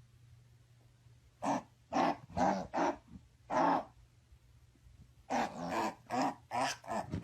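A dog giving a series of short vocal calls: four spaced calls, a pause, then a quicker run of about six, over a faint steady low hum.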